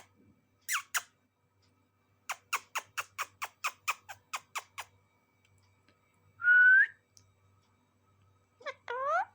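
Indian ringneck parrot calling: a fast run of about a dozen sharp chirps, then one loud held whistle about six and a half seconds in, and a rising squawk near the end.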